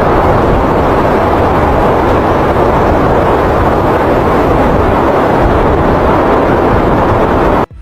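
A loud, steady rushing noise with a low rumble underneath, which cuts off suddenly near the end.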